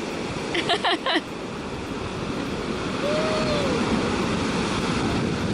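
Ocean surf breaking and washing ashore, a steady rushing noise that grows louder from about three seconds in. Brief distant voices are heard about a second in.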